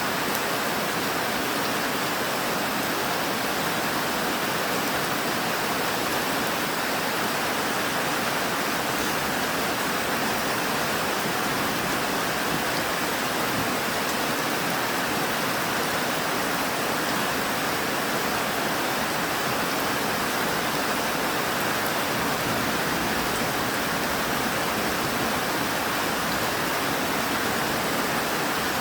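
Steady rain falling, an even hiss that neither builds nor pauses.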